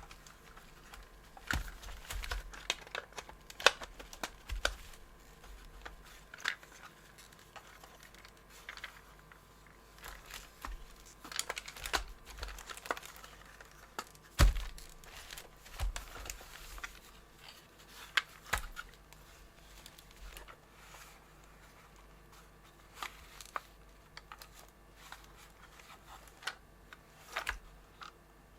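Hand work on a vacuum cleaner's rotating-brush head: irregular clicks, taps and crinkly rustling of plastic parts being handled, with a couple of sharper knocks, the loudest about halfway through.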